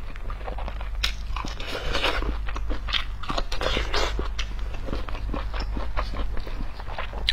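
Close-miked crunching and chewing of a small pickled gherkin: crisp, wet bites and chews, densest in the first half.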